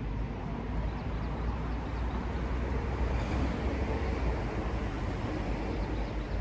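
Steady low rumble and hiss of outdoor background noise, with no distinct strikes or voices.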